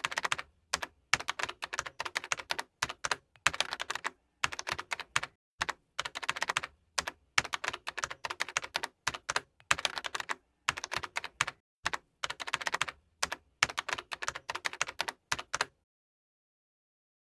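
Keyboard typing in short runs of rapid keystrokes, separated by gaps of complete silence, stopping a little before the end.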